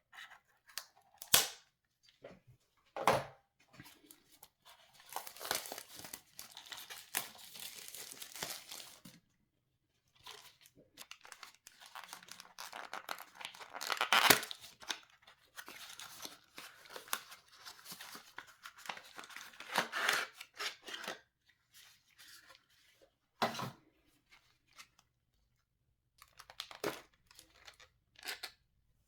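Packaging being torn and crinkled by hand, as when unboxing computer parts: long stretches of tearing and rustling, broken by a few sharp knocks.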